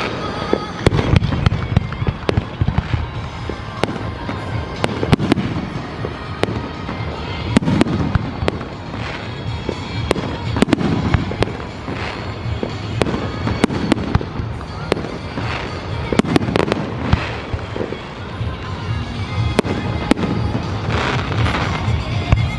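Aerial fireworks going off in a steady barrage, with many sharp bangs and crackling pops one after another.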